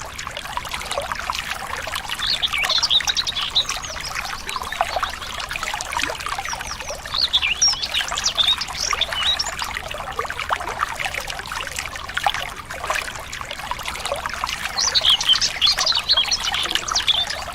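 Water trickling and splashing steadily, with birds chirping in three spells of quick, high, twittering notes.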